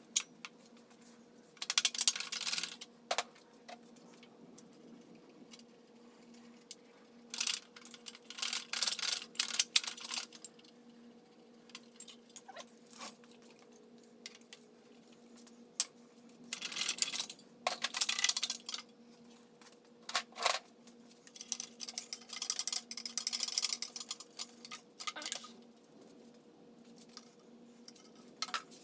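Metal tools and engine parts clinking and clattering in irregular bursts while an air-cooled VW 1600 engine is taken apart, over a steady low hum.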